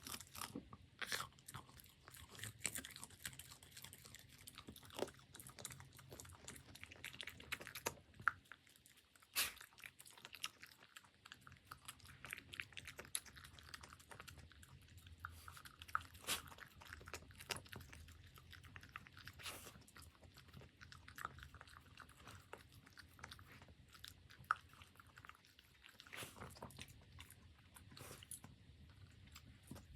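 A puppy chewing and crunching its food, with irregular crisp crunches and bites, some louder than the rest.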